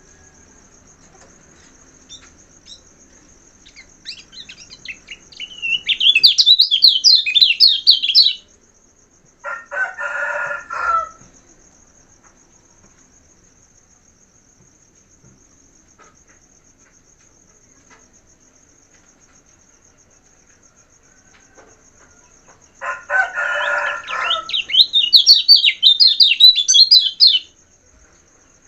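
A kecial kuning, a small white-eye, twittering twice in fast, high chattering phrases of about three seconds each. A rooster crows twice in the background, about ten seconds in and again near the end, over a steady high insect trill.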